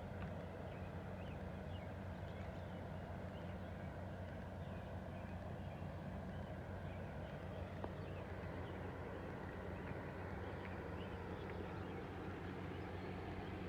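Garden ambience after rain: a steady low hum under a scatter of many short, faint high chirps.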